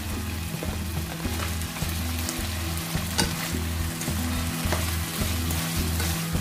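Chicken pieces, onions and fresh carrot strips sizzling in hot oil in a nonstick wok, with a few sharp clicks, one about three seconds in. Soft background music with a repeating bass line plays underneath.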